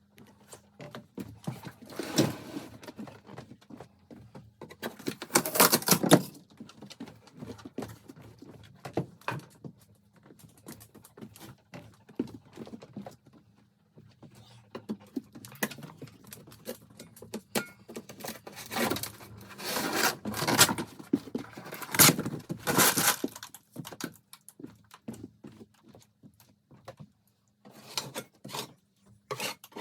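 Old vinyl flooring being torn and scraped up by hand, with irregular knocks and clatter. It comes in louder bursts a few seconds in and again past the middle.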